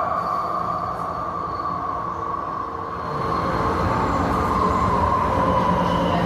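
Electric AirTrain car running along its guideway: rumble and rail noise under a strong motor whine that sinks slightly in pitch until about three seconds in, then climbs again as the train picks up speed.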